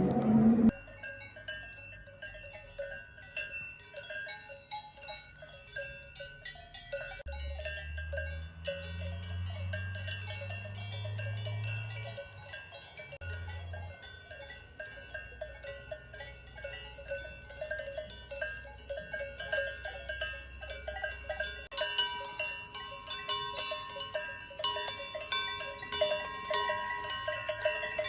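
Several cowbells on grazing cattle clanking and ringing irregularly. A low drawn-out sound runs beneath them for several seconds in the middle, and more bell tones join about three quarters of the way through.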